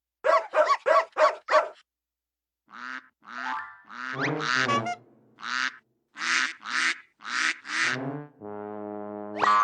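Cartoon mystery sound effect: a rapid run of five short pitched calls, then a slower, uneven series of calls, and a steady buzzing tone near the end.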